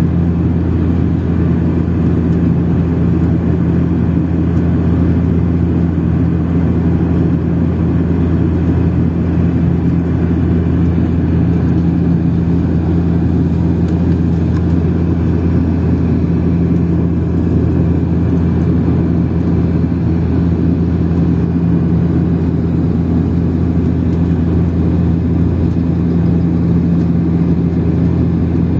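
Steady cabin drone of an airliner in cruise: a constant low hum from the engines and propellers over an even rush of air, with no change in pitch or level.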